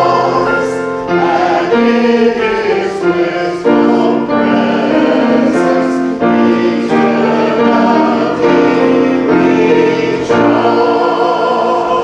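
A congregation singing a hymn together in parts with instrumental accompaniment, held chords changing every second or so.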